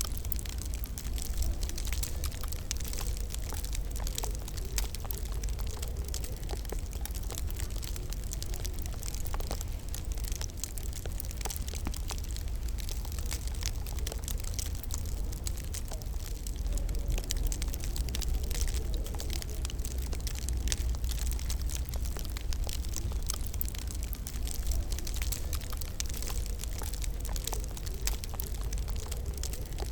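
Fireplace fire crackling, with many small pops and ticks over a steady low rumble.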